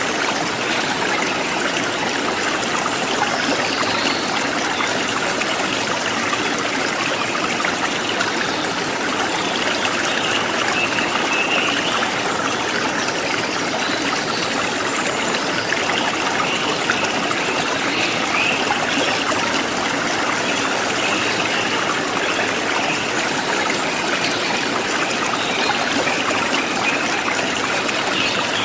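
Forest stream flowing steadily.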